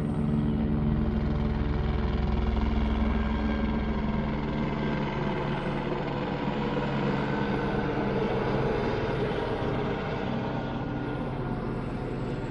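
Police helicopter flying low overhead: a steady rapid chop of rotor blades over the drone of its engine, a little louder in the first few seconds.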